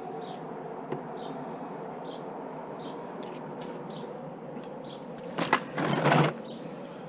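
A steady buzzing hum, then about five and a half seconds in two short bursts of rattling clatter, like small metal screwdriver bits being rummaged through while hunting for a security bit.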